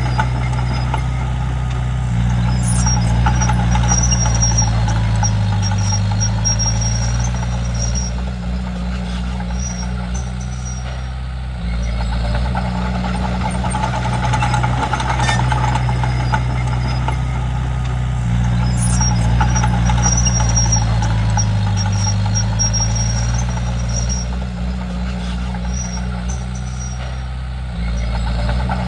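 Komatsu D31P bulldozer's diesel engine working under load, its note rising and falling in two long cycles as it pushes, with intermittent high-pitched squeaks during the harder stretches.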